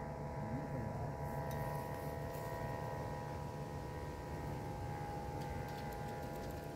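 Wind rumbling on the microphone, with a steady hum of several held tones over it; the higher tones cut off near the end.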